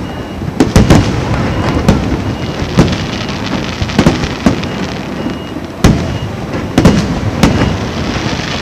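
Aerial fireworks shells bursting: about ten sharp bangs, irregularly spaced and some in quick pairs, over a continuous rumble and crackle from the display.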